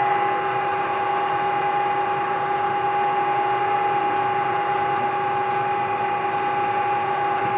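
Drill press with its motor run from a Mitsubishi D700 variable-frequency drive, running steadily while drilling a hole: a steady whine of two held tones over a hiss.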